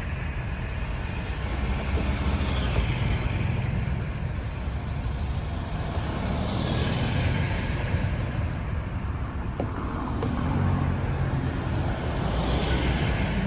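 Road traffic: steady low engine and tyre rumble with vehicles passing one after another, swelling and fading every few seconds.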